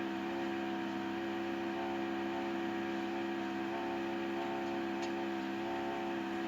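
A steady, even hum made of several held tones, with no clear strokes or breaks.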